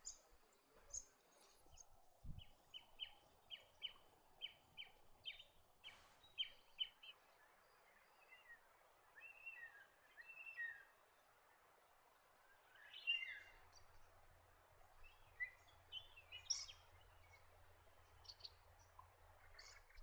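Faint bird calls in quiet bush ambience: a run of about a dozen short, evenly spaced chirps, two to three a second, followed by scattered higher chirps and calls. A single faint click comes about six seconds in.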